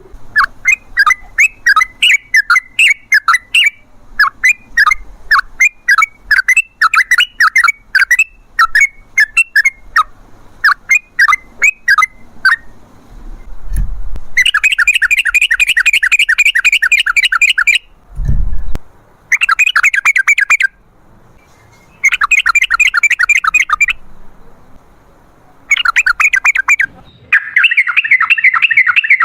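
Yellow-vented bulbul (trucukan) singing: quick repeated chirps in short phrases for the first dozen seconds, then long, fast runs of notes (the 'ropel' rattle) with short breaks between them. Two dull thuds come in about 14 and 18 seconds in.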